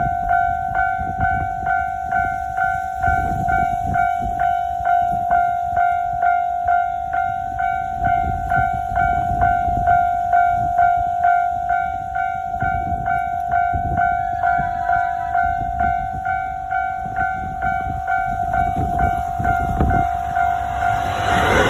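Railway level-crossing warning bell ringing in a steady, even pulse of about two to three strokes a second. Near the end, a passing train's rushing noise rises and swamps it.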